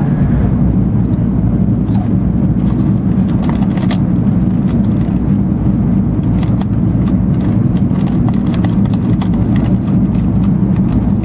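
Steady low rumble of an E2 series Shinkansen running at speed, heard from inside the passenger cabin, with light clicks now and then.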